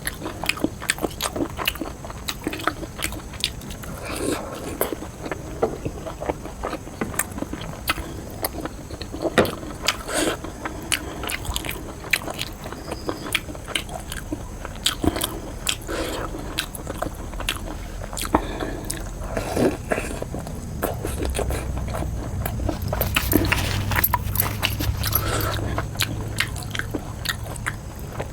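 Close-miked eating: many irregular mouth clicks and smacks of biting and chewing food. A low steady rumble joins for several seconds near the end.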